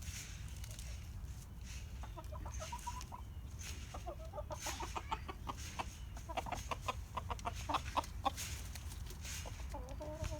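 Chickens clucking: quick runs of short clucks from about two seconds in until about eight seconds, then a few longer drawn-out notes near the end.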